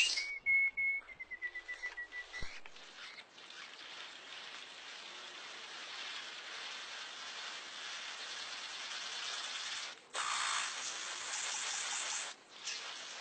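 A bird calling: a held high whistle that breaks into a quick trill of short notes, lasting about two and a half seconds. Then a steady high hiss, which grows louder about ten seconds in.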